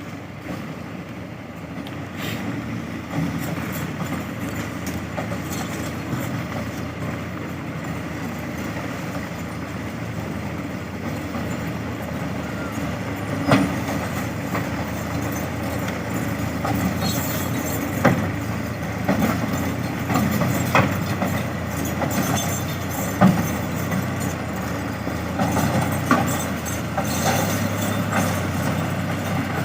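Tractor running with a steady low drone, with scattered sharp knocks and clanks, the loudest about a third and about two thirds of the way in.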